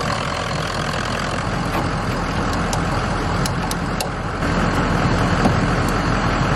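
Ford 6.0 Power Stroke turbo-diesel V8 idling smoothly and steadily, with a few light clicks in the middle.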